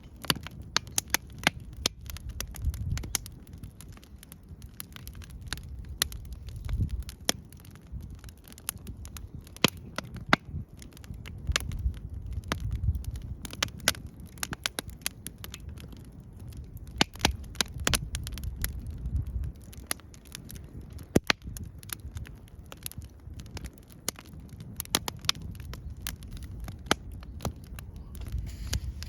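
Wood campfire crackling, with frequent irregular sharp pops over a low rumble that swells and fades.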